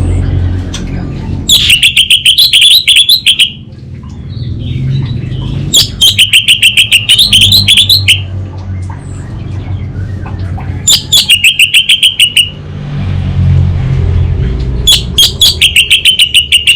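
Orange-headed thrush singing four rapid trilling phrases of quickly repeated notes, each about two seconds long, with pauses between. A low rumble fills the gaps between phrases.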